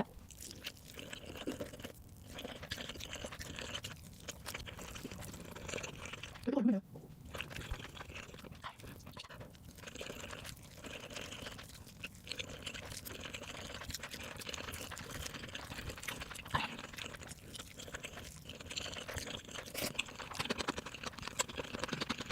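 Eating sounds: crunching and chewing with many irregular small clicks and wet noises throughout, and one short vocal sound about six and a half seconds in.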